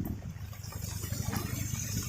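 Heavy rain, a dense even noise with a strong low rumble underneath that swells up suddenly at the start.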